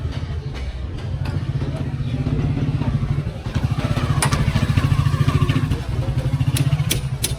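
A motor vehicle engine running close by, a steady low pulsing that grows louder in the middle, with several sharp clicks near the end.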